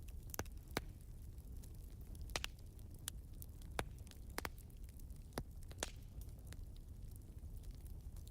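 Wood fire crackling, with sharp pops at irregular intervals over a low, steady rumble.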